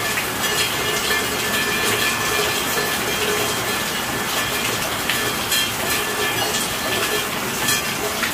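Steady rainfall: a dense, even hiss of falling rain with scattered sharper drop hits.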